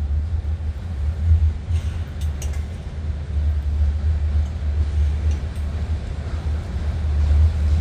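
Union Pacific train rolling past with a steady low rumble, with a few brief sharp clicks about two seconds in.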